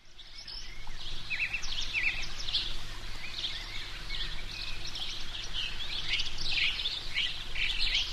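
Small birds chirping repeatedly over a steady low background noise.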